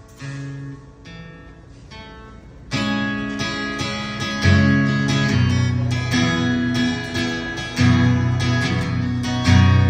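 Acoustic guitar playing an instrumental break in a song: a few quiet, ringing notes, then strummed chords that come in loudly about three seconds in.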